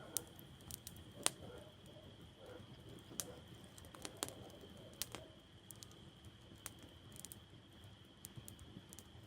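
Wood campfire crackling: irregular sharp pops and snaps over a faint low rustle, the loudest pop about a second in.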